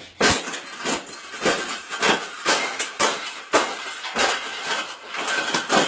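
Wire bird cage being bent and folded flat: repeated metallic clanks and rattles, about two a second.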